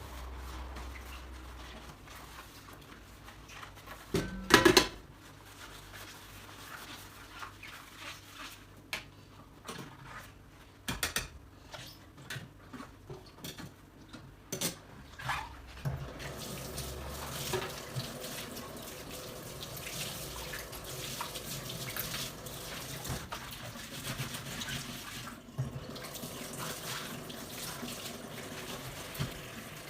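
Dishes being washed at a kitchen sink, with clinks and knocks of dishes and a sharp, loud clatter about four and a half seconds in. A run of lighter clicks follows, then tap water runs steadily through the second half.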